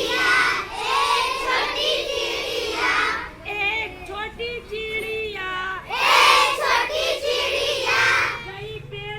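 Children's voices singing a Hindi children's song.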